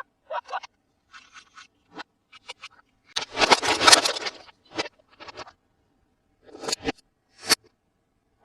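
Toy packaging being handled and scraped: short scratches and clicks, with one longer, louder scrape about three seconds in.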